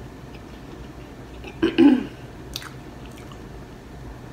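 Close-miked chewing of a mouthful of tortilla wrap with the mouth closed, with small wet mouth clicks. About two seconds in comes one short, louder sound from the voice, lasting about half a second.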